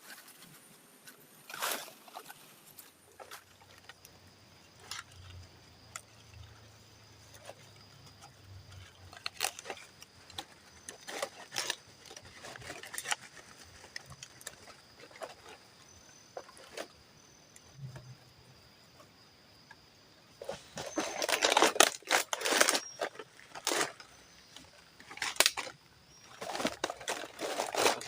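Intermittent rustling, crackling and knocks of hands working shelter materials while building a shelter door. There is a louder bout of rustling about two-thirds of the way through, and another near the end.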